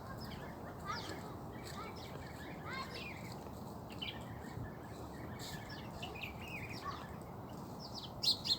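Small birds chirping: many short, quick calls scattered throughout, with a louder pair of chirps near the end, over a steady low background noise.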